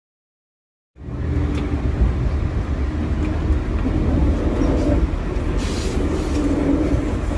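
Silence for about the first second, then a track inspection vehicle running along the line, heard from inside its driving cab: a steady low rumble with wheel-on-rail noise. A little past halfway a rushing hiss joins in as a suburban train passes close by on the next track.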